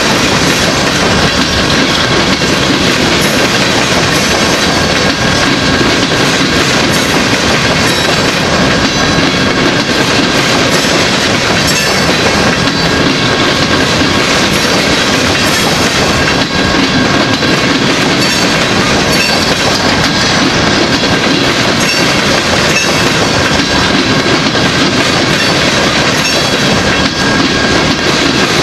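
Empty rock-train gondola cars rolling past close by, their steel wheels running on the rails in a loud, steady clatter and rumble.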